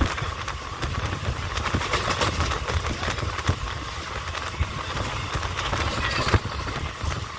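Indian Railways passenger train running at speed, heard from an open coach doorway: a steady rumble of the wheels on the track with irregular clicks and knocks, one sharper knock about six seconds in.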